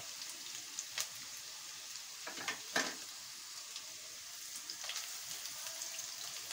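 Sliced onion, garlic and freshly added julienned ginger sizzling in hot oil in a non-stick wok, the onions partly fried. A spatula stirs through them, scraping against the pan a few times, loudest a little under three seconds in.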